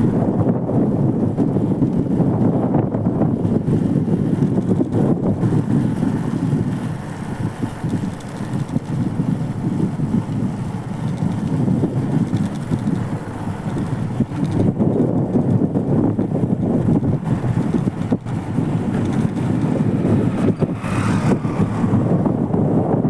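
Wind buffeting the microphone: a loud, gusting low rumble that eases slightly about seven seconds in and again around fourteen.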